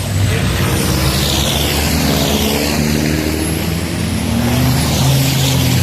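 Racing trucks' turbo-diesel engines running hard, their pitch stepping up and down with gear changes, with falling high whines above.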